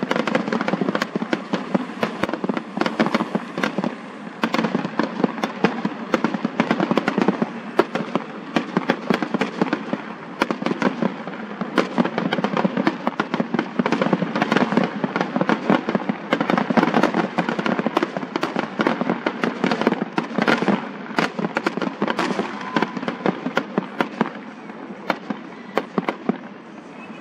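Fireworks display: a dense, continuous barrage of sharp bangs and crackling, several reports a second, thinning out in the last couple of seconds.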